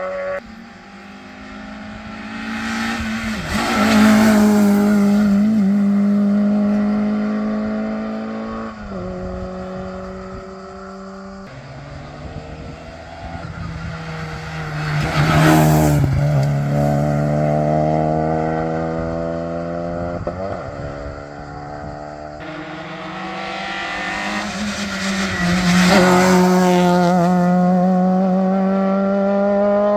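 Modern rally cars driven hard on a closed special stage, passing one after another: three loud pass-bys, about a third of the way apart, with the engine note climbing and dropping through gear changes and lifts off the throttle.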